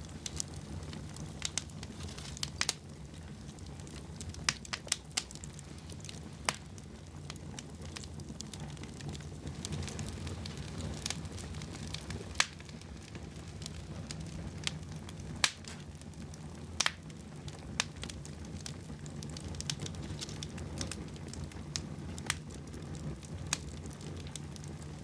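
Wood fire crackling in a fireplace: a steady low rumble with irregular sharp pops, about a dozen of them.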